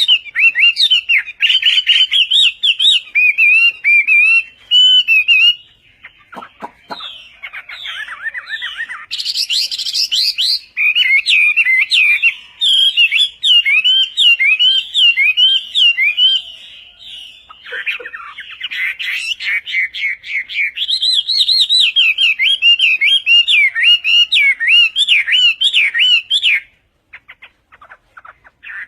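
A songbird singing a long, fast, varied song of rapid chirps and warbled notes. It pauses briefly about six seconds in and again around eighteen seconds in, and stops shortly before the end.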